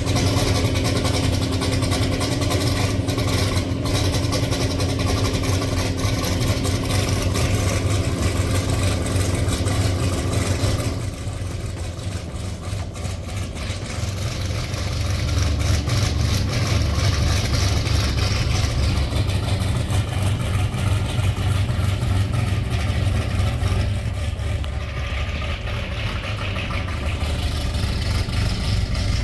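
Car engine running at idle, a steady low rumble with a hum. The sound changes and dips slightly about eleven seconds in, then picks up again.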